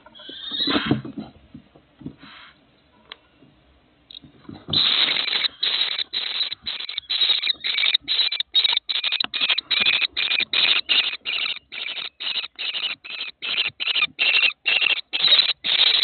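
Birds giving a long, rapid series of harsh, raspy calls, about two to three a second, starting about five seconds in.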